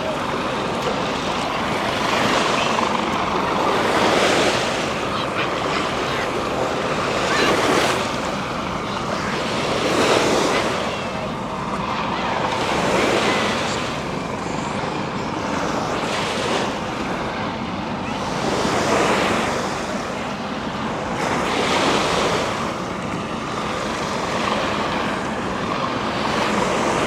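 Ocean surf breaking on a beach, the wash of the waves swelling and falling away every few seconds.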